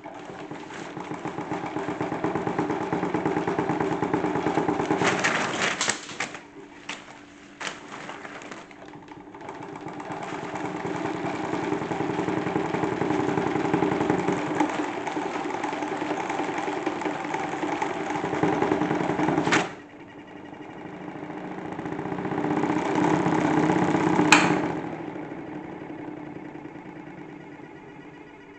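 Salad-spinner toy washing machine running: its small electric motor spins the drum up to a steady whirring hum, with a few knocks about five to eight seconds in. It cuts off suddenly about twenty seconds in, then spins up again, gives a sharp click, and slows down near the end.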